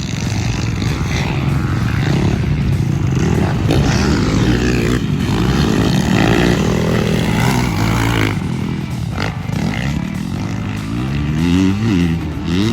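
Motocross dirt bike engine being ridden hard, revving up and backing off over and over, with quick rises and falls in pitch near the end.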